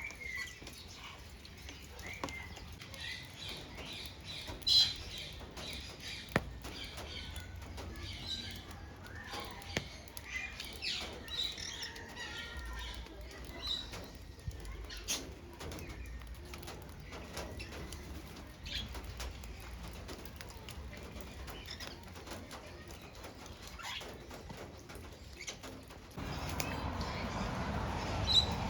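Parrots chirping with short, scattered calls, with wings fluttering and occasional sharp clicks. A steady rushing noise comes in near the end.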